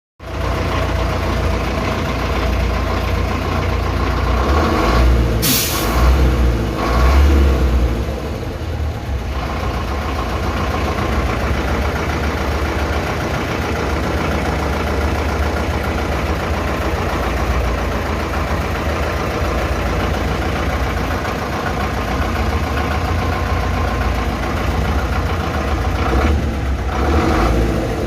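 MMZ D-245 four-cylinder turbodiesel in a ZIL-5301 'Bychok' truck, running after a full overhaul. It idles steadily and is revved briefly a few seconds in and again near the end, with a short sharp hiss or clatter about five seconds in.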